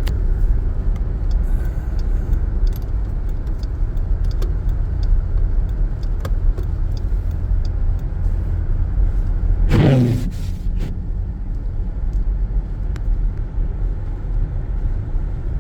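Steady low driving rumble inside the cabin of a 2014 Jeep Grand Cherokee V6 on snowy roads, with scattered light ticks. A short voice-like sound about ten seconds in.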